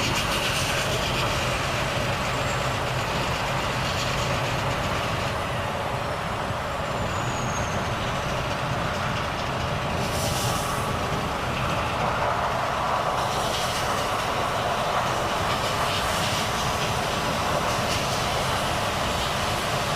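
Volvo FH truck under way, its diesel engine running steadily under road and wind noise. Two short hisses break in about ten and thirteen seconds in.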